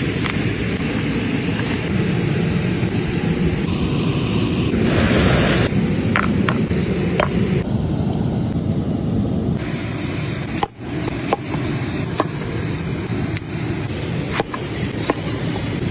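Swedish torch log fire burning under a stone cooking slab: a steady hiss with scattered crackles and pops.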